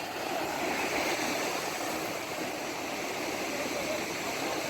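Steady rushing of rough sea water, a continuous hiss and wash without distinct splashes, slightly louder from about half a second in.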